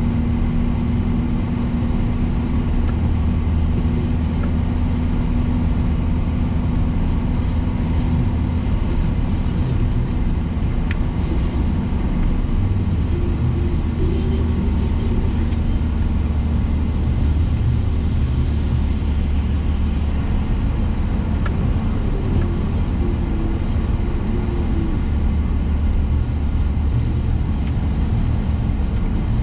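Car cabin noise while driving: a steady low engine and road rumble with a constant hum, which dips briefly and comes back strongly about twelve seconds in.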